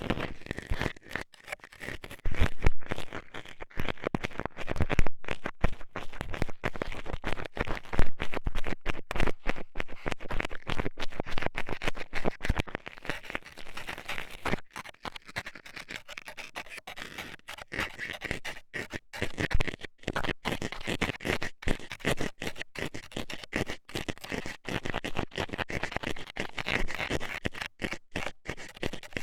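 Metal scaler scraping and poking inside the ear of a binaural ASMR microphone: rapid, rough scratching strokes with sharp clicks and crackles, continuing without pause.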